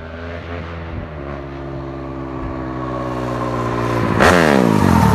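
Sport ATV engine at high revs, growing steadily louder as it approaches, then passing close by with a sharp drop in pitch about four seconds in.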